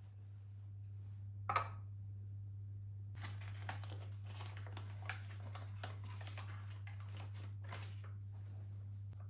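Hands handling things: a short sharp knock about a second and a half in, then several seconds of small clicks and rustling, over a steady low hum.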